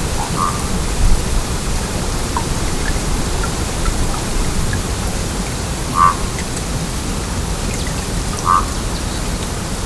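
Stream flowing with a steady rush of water, broken by three short gurgles: about half a second in, six seconds in and eight and a half seconds in.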